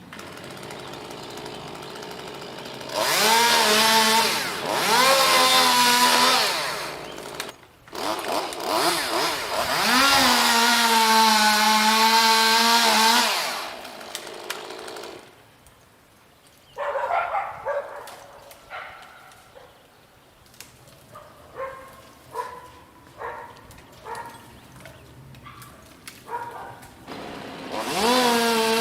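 Chainsaw revved up to high throttle in several loud stretches of a few seconds, its pitch rising sharply each time, dropping back to idle with short throttle blips in between.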